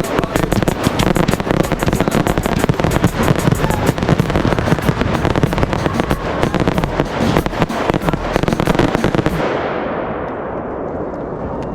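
Finale barrage of consumer aerial fireworks: a dense, rapid string of overlapping cracks and booms that stops about nine seconds in, leaving a fading rumble.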